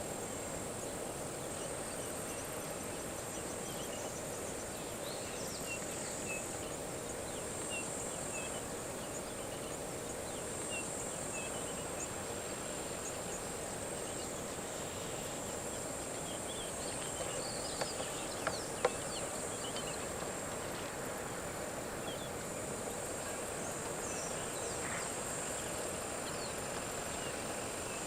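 Bush ambience: a steady high-pitched insect drone with scattered short bird chirps. A few sharp clicks come about two-thirds of the way through.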